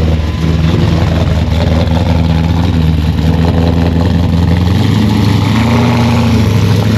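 Car engine idling with a steady low rumble, its pitch shifting slightly about five seconds in.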